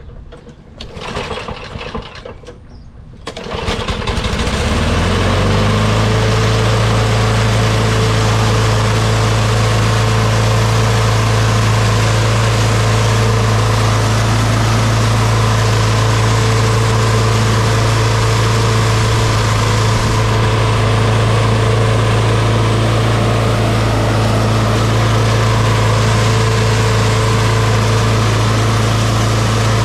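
Ariens mower's 5 hp Tecumseh single-cylinder engine starting about three seconds in, picking up speed briefly, then running steadily at a constant speed.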